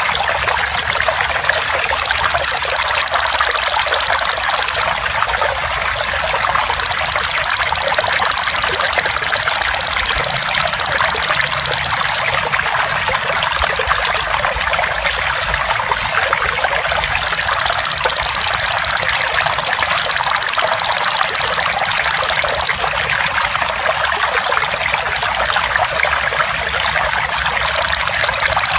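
Steady trickling water with a golden grasshopper (belalang emas) calling over it in loud, high, rapidly pulsed buzzing bouts of several seconds each. The insect calls four times, the last bout starting near the end.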